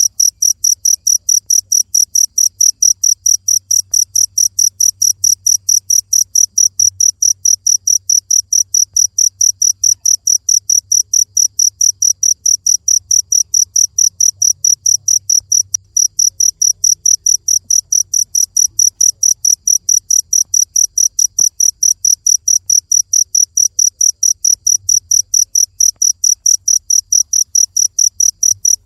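Cricket chirping in a steady, even rhythm of about three to four high-pitched chirps a second, with one brief pause about halfway through.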